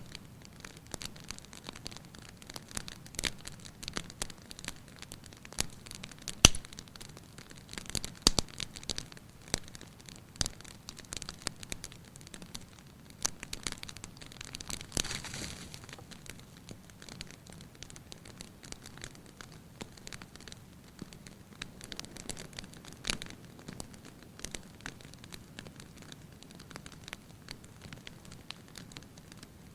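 Fire in a fireplace crackling, with irregular pops and snaps over a soft steady hiss. The sharpest pop comes about six seconds in, and there is a brief hiss about fifteen seconds in.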